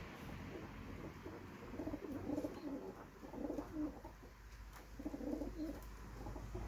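Domestic pigeons cooing: a run of low coos, then another after a short pause.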